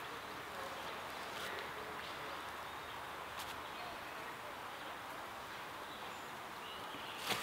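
Outdoor ambience: a steady background hiss with faint bird chirps and a few soft clicks, then one sharper knock near the end.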